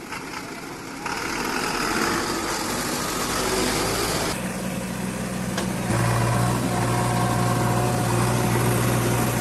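Heavy diesel engine running with a steady low hum that grows stronger about four seconds in and again about six seconds in.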